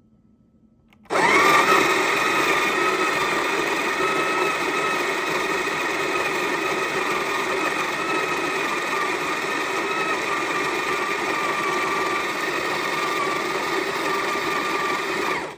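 Electric coffee grinder grinding a batch of beans. The motor starts about a second in with a steady whine, runs evenly and cuts off suddenly at the end.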